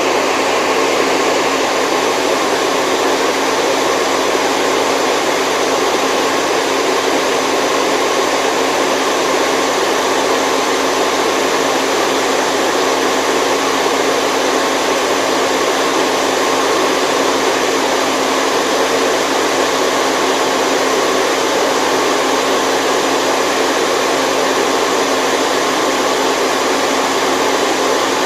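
Steady white noise: an even, unbroken hiss with no low rumble beneath it and no change in level.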